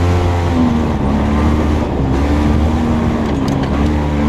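Off-road vehicle's engine running at a steady, fairly low speed, its pitch wavering slightly.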